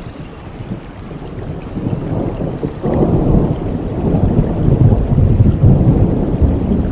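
Rain falling steadily, with a roll of thunder that builds about two seconds in and rumbles loudly through the rest.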